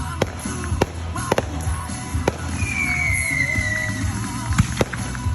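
Fireworks going off: a scattered string of sharp bangs, about eight in a few seconds, with a whistle that falls in pitch for about a second and a half near the middle.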